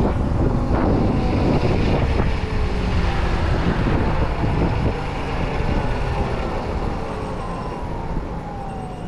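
Electric dirt bike riding on the road: wind rushes over the microphone while the motor's thin whine slides slowly down in pitch and the sound gradually eases off.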